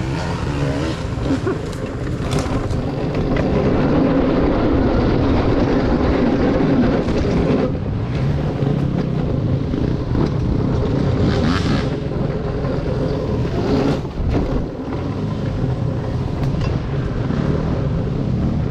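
Dirt bike engine running, its pitch wavering up and down with the throttle.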